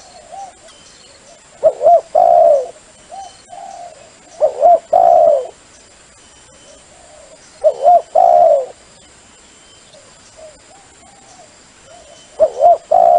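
A dove cooing in a repeated phrase of a few short notes, about once every three seconds, with fainter coos between the phrases. It is a dove call of the kind played to lure doves in.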